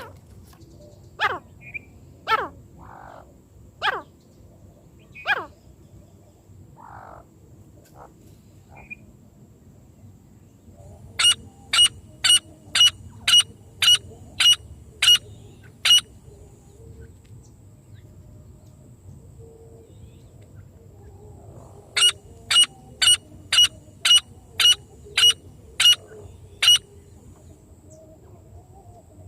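Francolin (teetar) calls: a few quick falling notes, then two runs of about ten sharp repeated notes, roughly two a second.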